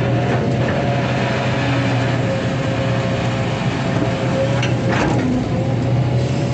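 Excavator's diesel engine running steadily under working load, with a short clank about five seconds in.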